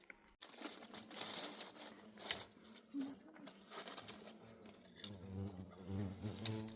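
Crinkling, rustling handling noise with irregular crackles, and a low hum over the last second or so.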